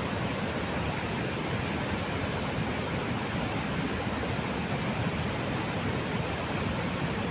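Steady rushing noise of a snow-and-debris avalanche flowing down a mountain stream channel.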